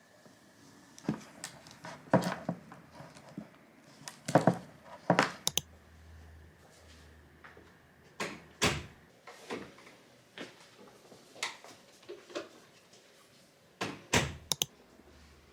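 A string of irregular knocks, clunks and thuds of things being handled: about ten separate hits, the loudest pairs near the middle and near the end.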